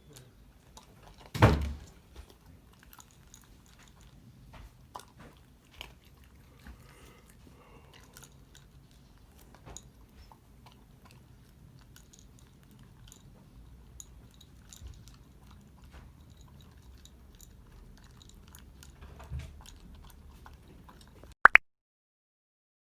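Shiba Inu eating, with many small crunches and clicks of chewing. A loud thump comes about a second and a half in, and a sharp click near the end, after which the sound cuts out.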